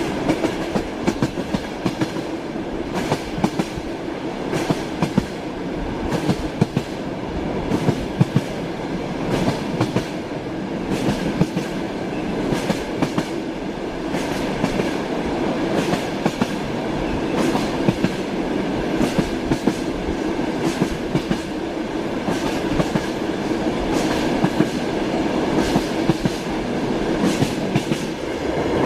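Train running on rails: a steady rumble with repeated sharp clicks of the wheels passing over rail joints (clickety-clack).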